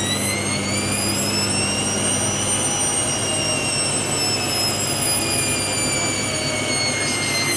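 Hoover WDYNS654D washer dryer spinning its drum: a high motor whine that climbs in pitch for the first two or three seconds, then slowly falls, over a steady low hum.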